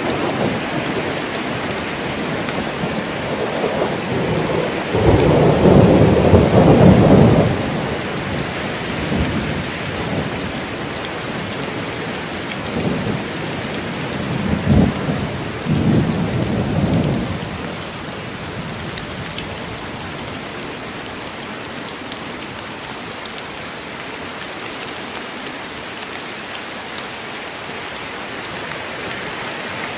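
Steady rain falling in a forest, with thunder rumbling twice: a long, loud roll about five seconds in and a broken rumble around the middle.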